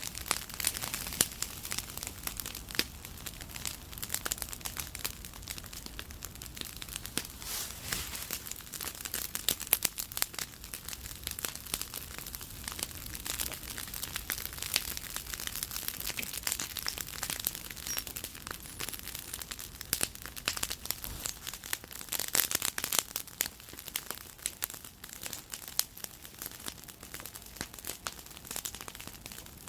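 Wood bonfire burning with dense, irregular crackling and sharp snaps, with a flurry of louder crackles about two-thirds of the way through.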